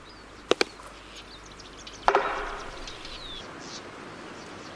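Two quick knocks on a tree trunk in the double-knock pattern of Magellanic woodpecker drumming. About two seconds in comes a louder rattling knock that fades slowly, followed by faint high bird calls.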